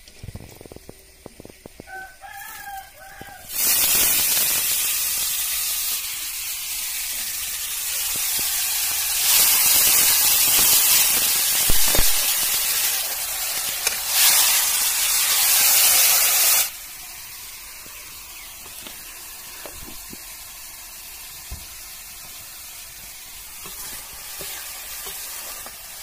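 Chopped mushrooms and brinjal sizzling loudly in hot oil in a kadai. The sizzling starts suddenly a few seconds in and cuts off abruptly about two-thirds of the way through. Just before it starts, a rooster crows briefly.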